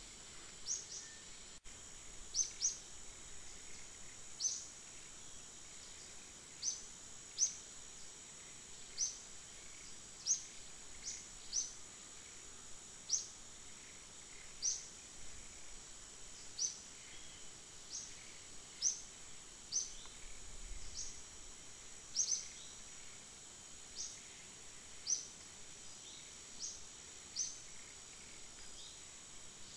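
Forest ambience: a bird repeats short, high, downward-slurred chirps about once a second over a steady high-pitched insect drone.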